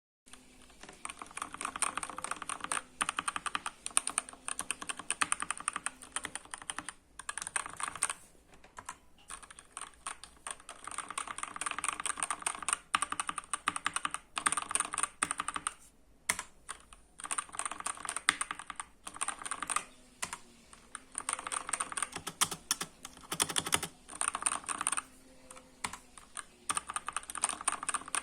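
Fast typing on a computer keyboard, shown off for its sound: dense runs of key clicks lasting a few seconds each, broken by brief pauses.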